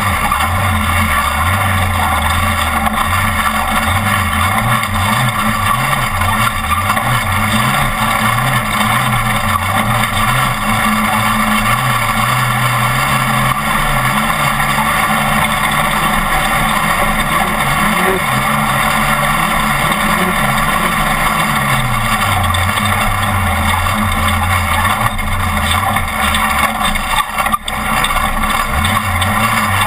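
Off-road race truck engine running hard, its pitch climbing and dropping again and again with throttle and gear changes, over steady rushing road and wind noise. The sound drops out briefly near the end.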